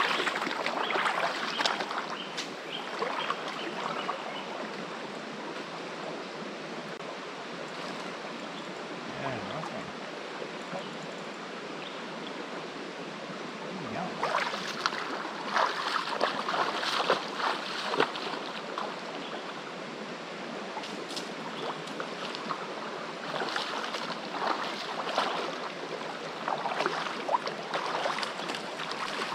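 Rainforest creek water running steadily, with bursts of short crackling noises in the second half.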